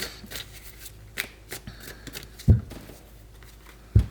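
Tarot cards being handled: light flicks and rustles as the deck is worked, with two soft thumps, about two and a half and four seconds in.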